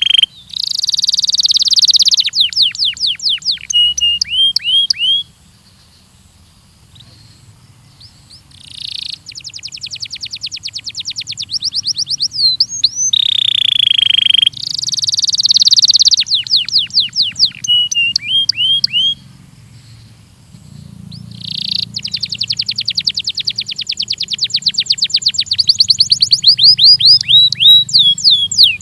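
Belgian canary singing a long song of fast trills, each a rapid run of repeated downward-sweeping notes, with held rolling phrases and short pauses between them.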